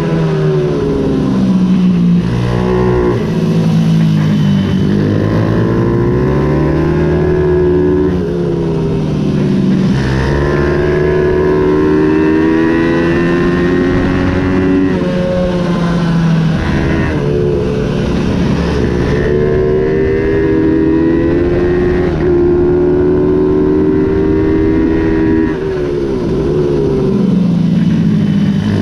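Ohvale 110 race minibike engine at racing speed, its note climbing as it revs out and then dropping sharply, over and over through the lap, as the rider shifts gear and brakes for corners.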